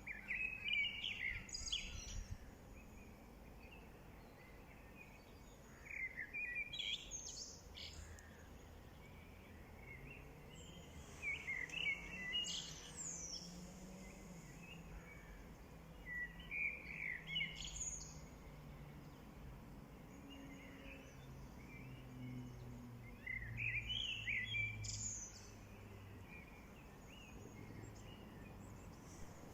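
A songbird singing short, quick warbled phrases, five in all, repeated about every five seconds, over a faint low hum.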